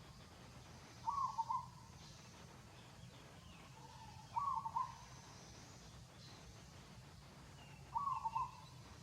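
A bird calling, a short phrase of a few notes repeated three times, about every three and a half seconds.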